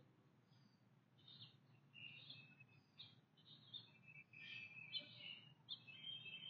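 Faint birdsong: short high chirps and calls from small birds, starting about a second in and coming more often toward the end.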